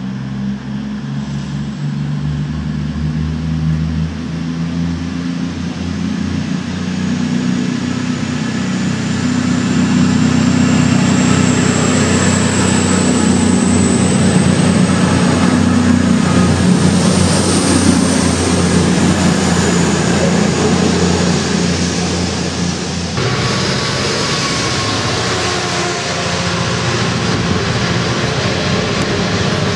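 Voyager diesel multiple unit running through the station, its underfloor diesel engines droning and a faint high whine rising slightly as the cars pass close by, loudest midway. About three-quarters of the way in the sound changes abruptly to a diesel locomotive hauling a train of open freight wagons past.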